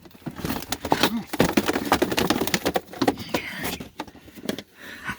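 Rapid clattering knocks and scrapes in a furnace pipe as a trapped bird is worked out of it.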